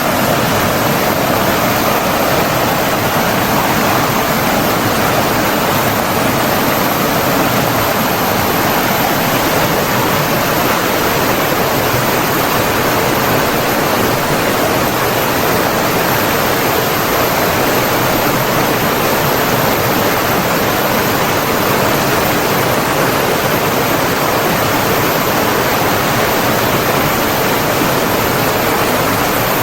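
Steady rush of flowing water, an even unbroken wash with no pauses or surges.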